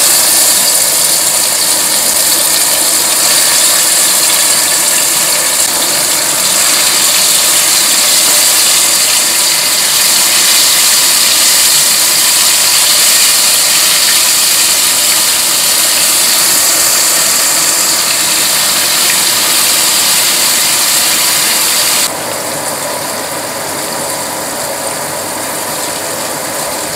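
Ground chilli, shallot and garlic spice paste frying in hot oil in a pot, a loud, even sizzle while it is stirred with a spatula. The sizzle eases a little about three quarters of the way through.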